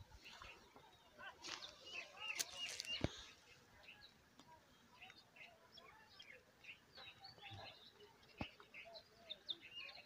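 Faint chirping of small birds, many short calls scattered through, with a sharp click about three seconds in and another a little past eight seconds.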